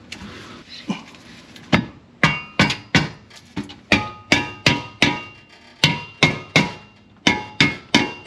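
A hammer striking metal over and over, about twenty blows at two to three a second, each one ringing briefly.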